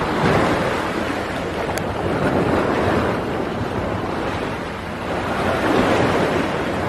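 Waves surging and washing in, swelling and easing every couple of seconds, with wind buffeting the microphone.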